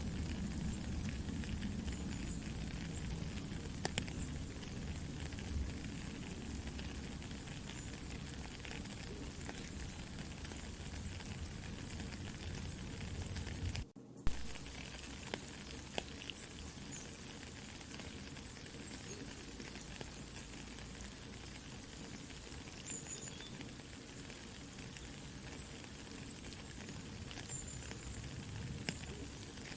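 Soft steady rain with a campfire crackling and popping over it. The sound cuts out for a fraction of a second about halfway through, then resumes with a sharp pop.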